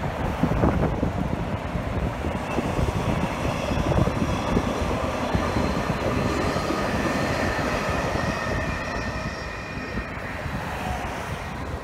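Transperth B-series electric trains passing on the track, with a steady high whine from about two seconds in that fades near the end. Under it runs the steady rush of freeway traffic.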